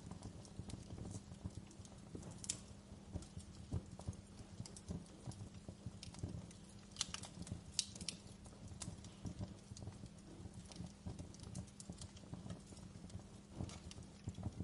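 Campfire crackling: a soft low rumble of burning wood with irregular small pops and a few sharper snaps.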